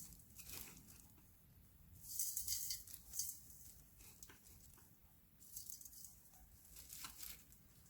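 Faint rattling patter of Korean red pepper flakes (gochugaru) being sprinkled over chives in a mixing bowl, in two short bouts.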